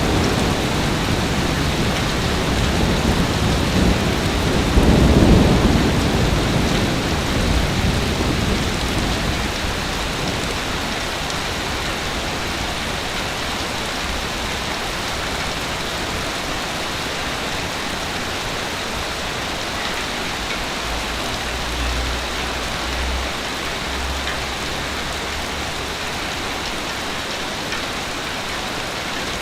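Sea waves on a beach: one wave breaks loudly about five seconds in, then the surf settles into a steady wash and hiss.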